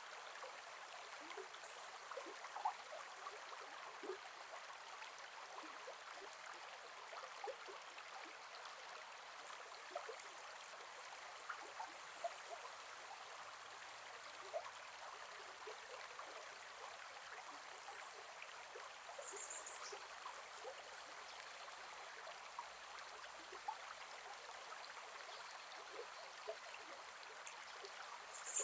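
Gentle forest river flowing over stones: a steady rush of water with many small splashes and gurgles. Two brief high chirps come about two-thirds through and at the very end.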